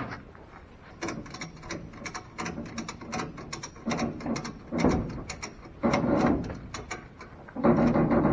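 Ratchet strap being cranked tight: runs of sharp clicks from the ratchet's pawl, with three longer, louder strokes in the second half.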